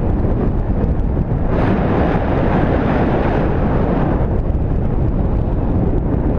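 Strong wind buffeting the microphone, a loud steady rush that swells brighter and hissier for about three seconds starting about a second and a half in.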